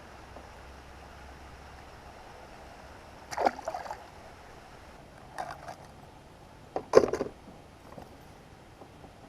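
Sounds of a fishing kayak on the water: three short clusters of splashing and knocking, about three, five and a half and seven seconds in, the last the loudest, over a steady low background.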